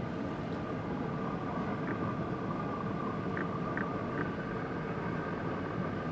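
Steady low rumble of distant engines and traffic, with a faint steady hum running through it.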